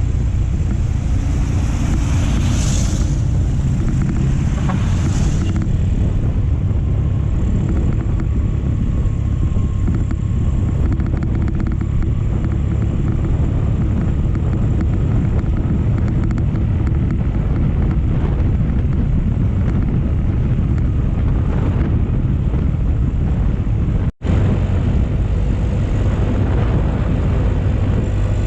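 Motorcycle on the move: steady engine and wind noise on the microphone while riding, with a brief dropout about 24 seconds in.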